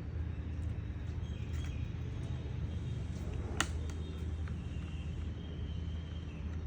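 Steady low background hum with faint high chirps, and one sharp click about three and a half seconds in.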